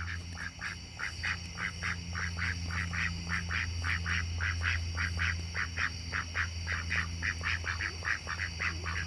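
Ducks quacking in a steady run, about three short quacks a second, over a steady low hum.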